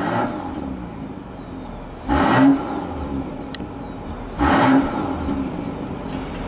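BMW X6 40i's turbocharged straight-six blipped in quick free revs through an aftermarket exhaust with a straight-through middle section. Three short rev surges, at the start, about two seconds in and about four and a half seconds in, each dropping back to idle.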